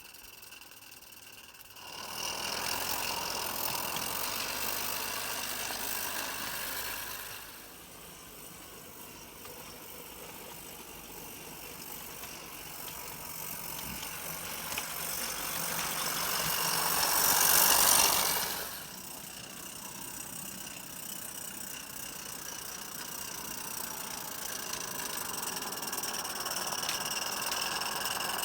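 Steam train running with a hissing, rattling sound. It starts about two seconds in and eases off a few seconds later, then builds to its loudest a little past halfway and drops away sharply.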